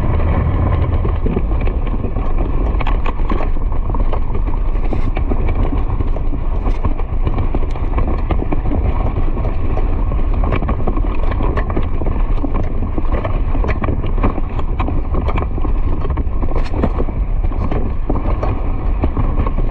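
Loud, steady low rumble with irregular clicks and clatter throughout.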